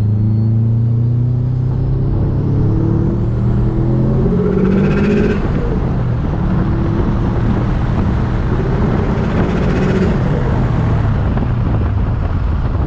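Turbocharged Subaru Impreza flat-four engine pulling hard under boost, pitch climbing through two gears. Each climb ends in a short fluttering rush as the throttle lifts: turbo flutter ("stututu"), caused by the blocked-off blow-off/recirculating valve.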